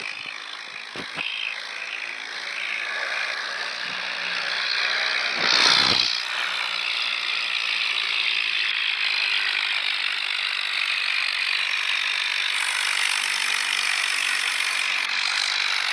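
Tractor running with mechanical rattling, a steady noisy din. A brief loud burst comes about five and a half seconds in.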